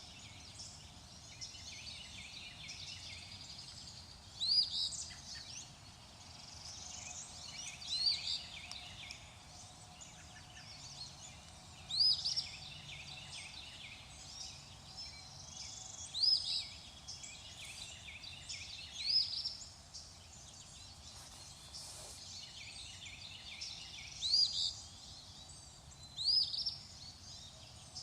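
Birds singing in a chorus of many high chirps, over which one louder bird repeats a short call that rises in pitch, about every four seconds.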